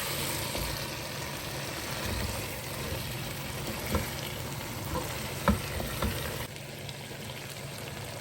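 Food frying and sizzling in a pan while being stirred, with a few sharp knocks partway through.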